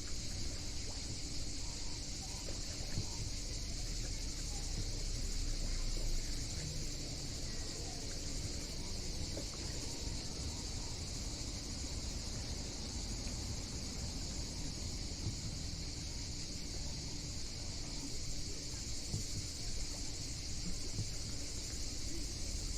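Cicadas chorusing, a steady high buzz that holds without a break, over a low rumble.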